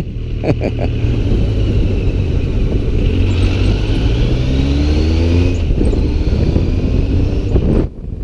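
Motorcycle engine running under way, with wind noise on the microphone. The engine note climbs as the bike accelerates about halfway through, then settles, and the sound cuts off suddenly near the end.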